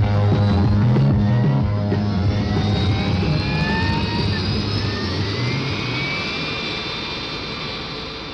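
BAC One-Eleven airliner's Rolls-Royce Spey jet engines running, with several whining tones rising slowly in pitch. The engines are loudest about a second in and ease off gradually.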